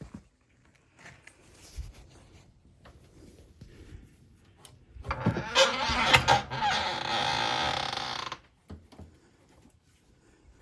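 Light knocks and handling noises, then a loud creaking, grinding scrape for about three seconds that stops abruptly.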